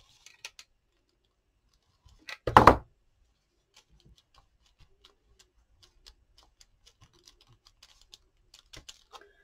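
Handling of paper craft materials on a tabletop: one loud rustling knock about two and a half seconds in, then faint scattered clicks and taps.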